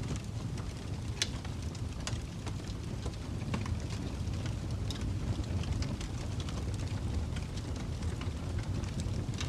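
Wood fire crackling in a fireplace: irregular sharp pops and snaps over a steady low rumble of the flames, with the loudest pop about a second in.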